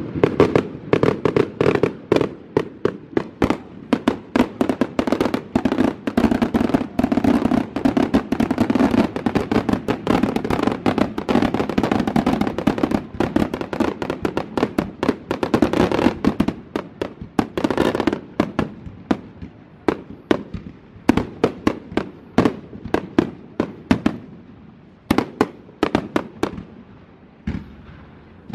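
Fireworks display: aerial shells bursting and crackling in a rapid, near-continuous barrage for about the first eighteen seconds, then thinning to scattered separate bangs.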